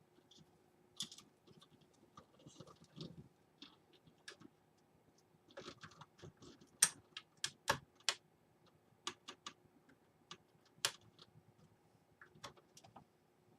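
Scattered small clicks and taps of plastic connectors and cables being handled inside a computer case while the front-panel USB 3.0 header cable is fitted to the motherboard. The clicks come irregularly, with a few sharper ones about halfway through and again later.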